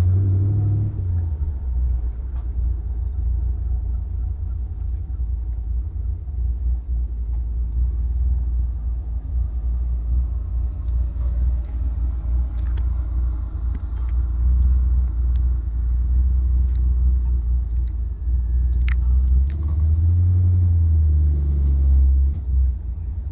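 Chevrolet Impala's 300-horsepower 327 V8 with a Holley four-barrel, running at low speed with a deep rumble that swells twice, about two-thirds of the way in and again near the end.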